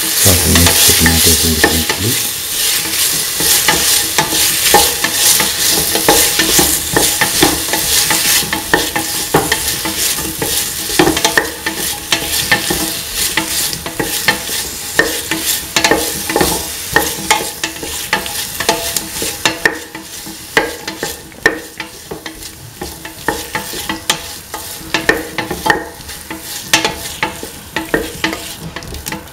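Tomato pieces, shallots, garlic and green chili sizzling in oil in a metal pan while a spatula stirs and scrapes them, with many short scrapes and taps on the pan. The sizzle is strongest in the first several seconds and fades gradually over the second half.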